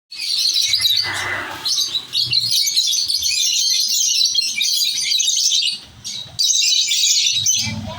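A group of lovebirds chattering in dense, continuous high chirps, breaking off briefly about six seconds in.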